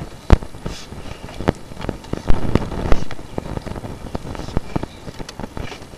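Irregular clicks and knocks over a rustling scrape, from a sewer inspection camera's push cable being worked through a cast iron drain line thick with hard-water scale.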